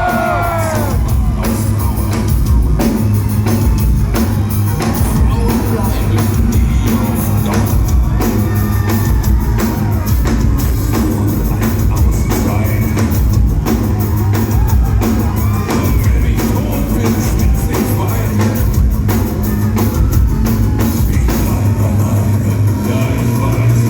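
Industrial metal band playing loud and live: a heavy pounding drum kit and distorted guitars, with a man singing at times.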